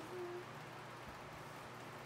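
A dog whining softly: one short, steady high whine near the start, over a faint steady hum.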